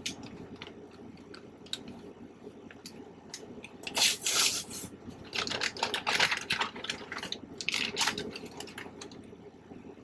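Small plastic parts bag being handled, torn open and crinkled, with scattered light clicks and then several loud crinkling rustles.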